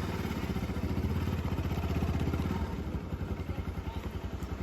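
Motorcycle engine running at low revs with a steady, evenly pulsing beat.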